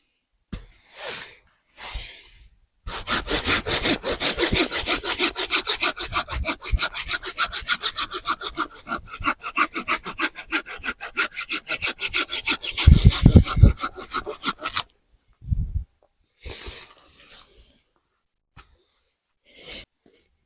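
Hand saw cutting through wood in rapid, even back-and-forth strokes for about twelve seconds, after a few short scrapes; it stops abruptly near the end, leaving a few brief rustles.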